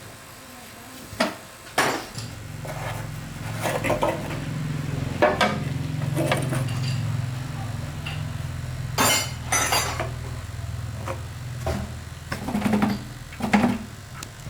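Metal workshop sounds: metal clinks and knocks, then a low motor hum starts about two seconds in and keeps running under them. Two short, loud hissing bursts come near the middle.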